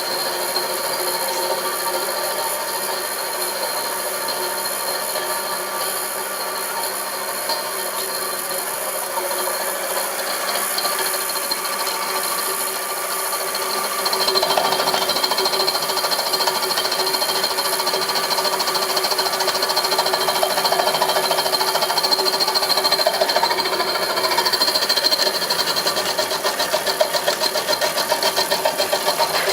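Homemade milling machine running steadily with a constant whine. It gets louder and rougher about halfway through, and a fast rattling pulse comes in near the end.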